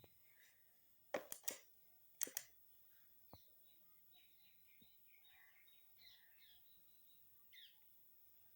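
Near silence broken by two quick clusters of sharp clicks, about a second and two seconds in, with faint high chirps here and there.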